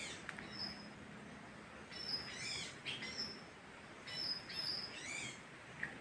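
Birds calling: short high whistled notes and quick sweeping chirps, in a spell about two seconds in and another from about four to five seconds, over a faint steady hiss.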